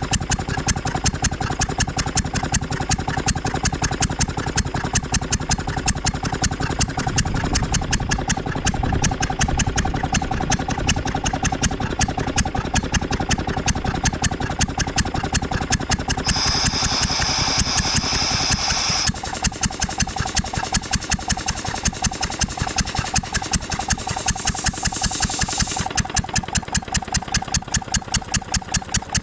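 Ruston & Hornsby 2PS petrol-engined portable air compressor running steadily with a fast, even beat. About two thirds of the way in, a loud hiss lasts for about three seconds, and after it the running sounds lighter.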